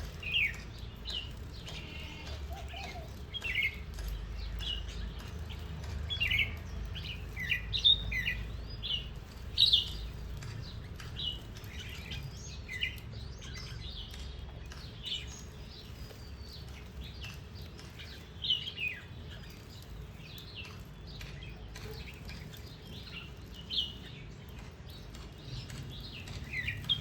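Small garden birds chirping: short, sharp chirps that drop in pitch, coming in scattered clusters, busiest in the first half and again briefly past the middle, over a faint low rumble.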